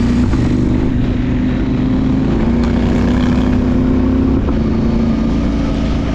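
Adventure motorcycle engine running steadily under way, with a steady engine note and a brief dip about four and a half seconds in.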